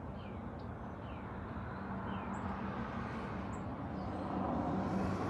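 Steady outdoor background noise with a faint low hum, and birds chirping: three short falling chirps in the first two seconds, then a few brief higher chirps.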